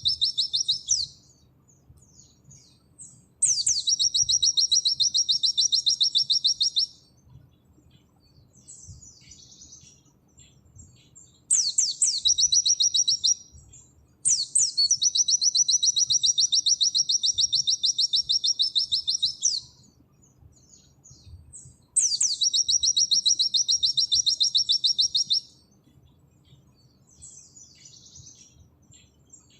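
White-eye (pleci) singing long, rapid, high-pitched trills, the 'nembak' song, each opening with a quick upward sweep. There are five runs, the longest about five seconds, with soft scattered twittering between them.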